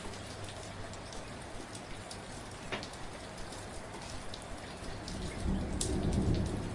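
Steady rain falling, with many separate drops ticking on a surface. A low rumble swells near the end.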